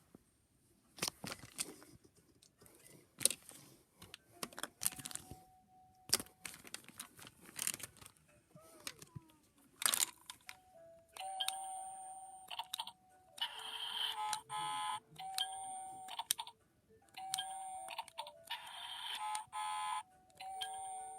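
Plastic clicks and knocks of an electronic toy being handled. About halfway through, the toy starts playing electronic beeps and chime-like tones in short repeated bursts.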